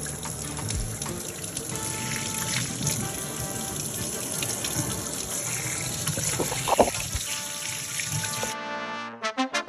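Water running steadily from a kitchen faucet into the sink, with faint music under it and one brief sharp sound about seven seconds in. The water cuts off abruptly near the end and brass music starts.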